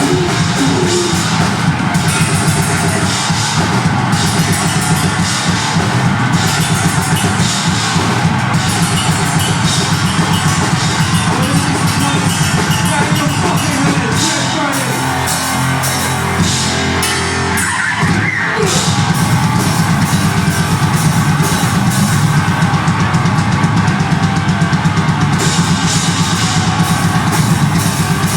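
Deathgrind band playing live: drum kit with heavily distorted guitar and bass, loud and dense. About 18 seconds in the playing breaks off for a moment, then the full band comes back in.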